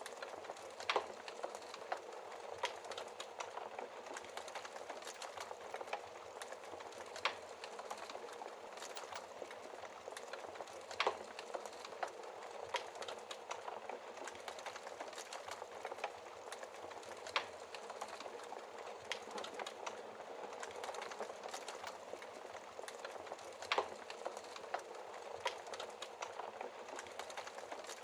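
Wood fire crackling steadily, with many small ticks and a sharp, louder pop every few seconds.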